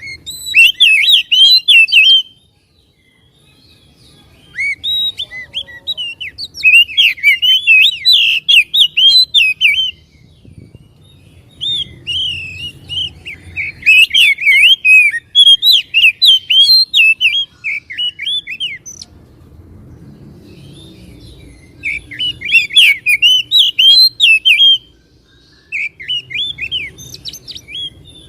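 Oriental magpie-robin (kacer) singing: loud bouts of rapid, varied whistled phrases, five bouts broken by short pauses.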